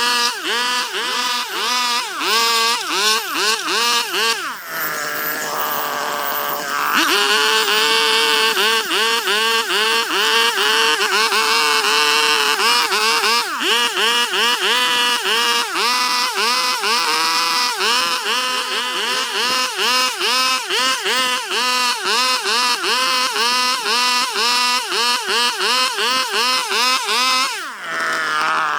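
Petrol chainsaw cutting into Chinese toon wood, its engine speed swinging up and down about twice a second as the chain bites and frees. About five seconds in it drops back to a steady idle for a couple of seconds, then revs into the cut again; it dips once more near the end.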